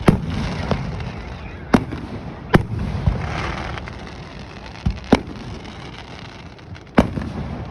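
Aerial fireworks going off: separate sharp bangs spaced a second or two apart, with a burst of crackling in between.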